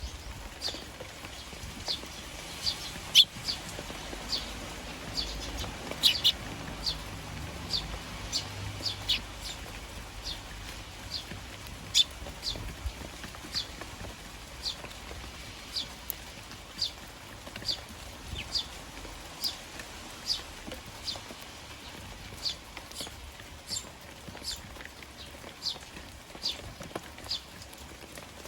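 Eurasian tree sparrows chirping over and over, short high chirps about once or twice a second, with a few sharp knocks among them.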